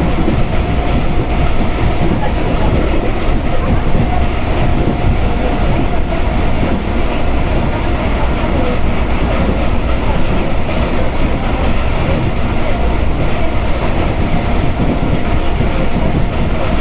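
Moving Russian suburban electric train heard from inside the carriage: a steady rumble and rattle of the wheels on the rails, with a steady high whine running through it.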